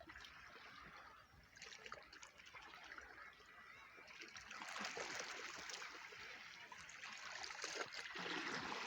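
Seawater washing and splashing in small waves, growing louder about halfway through.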